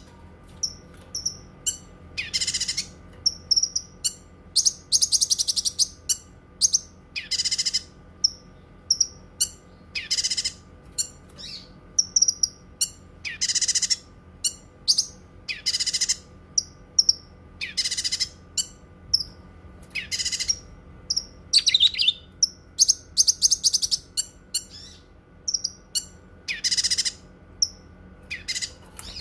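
Cucak kinoi singing: a loud, rasping call about every two seconds, with quick high chips and rapid trills between the calls.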